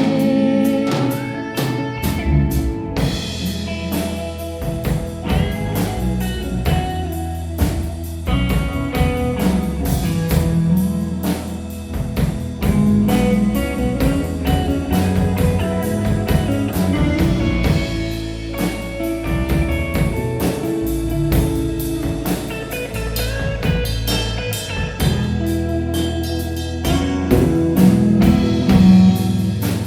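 A band playing an instrumental break with no singing: guitar lead over bass and a drum kit keeping a steady beat.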